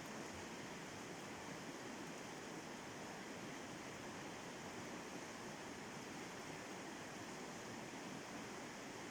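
River rapids rushing in a steady, even wash of water noise.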